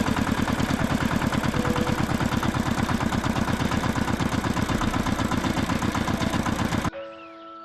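Tractor engine idling with a steady, rapid chugging, which cuts off abruptly near the end.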